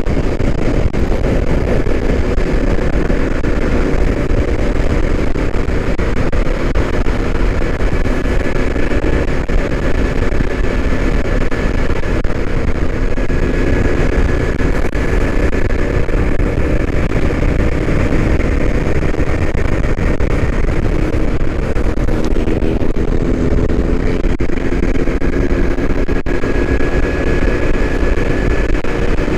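Motorcycle engine running at a steady cruising speed, heavy wind and road rumble underneath, the engine note climbing slightly near the end.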